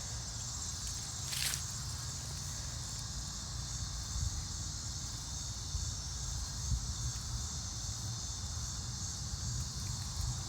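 Steady high-pitched chorus of insects in tall weeds, over a low rumble, with one brief hiss about a second and a half in.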